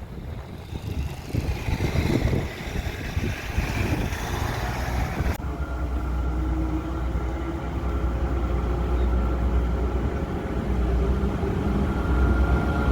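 Diesel locomotive engine running with a deep, steady rumble that grows louder over the second half.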